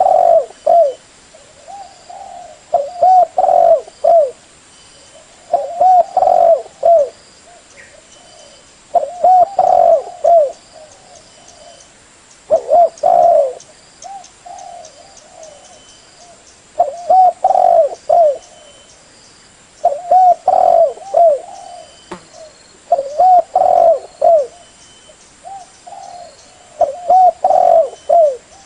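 Spotted dove (tekukur/derkuku) cooing: a short phrase of several coo notes repeated every three to four seconds, about nine times.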